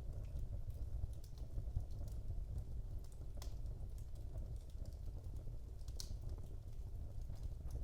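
Wood fire burning in a fireplace: a steady low rumble of the flames with irregular sharp crackles and pops from the burning logs, one louder pop about six seconds in.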